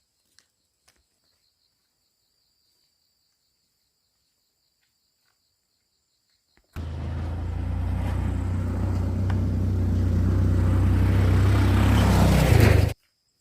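Motorbike engine running close by, starting suddenly and growing louder for about six seconds before cutting off abruptly.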